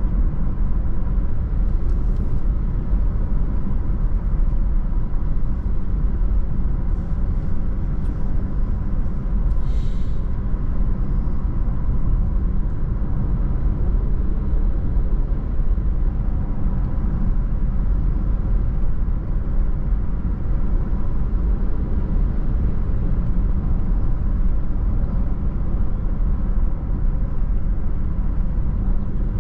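Steady low rumble of a car driving along the road, tyre and engine noise, with faint short clicks about two and ten seconds in.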